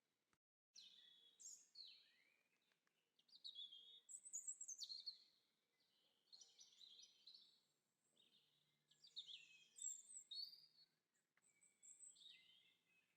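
Faint birdsong: small birds chirping and singing in quick, high phrases, one after another, with a brief complete dropout just after the start.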